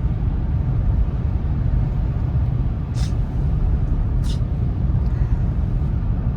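Steady low rumble of a car on the move, road and wind noise, with two short hissing sounds about three and four seconds in.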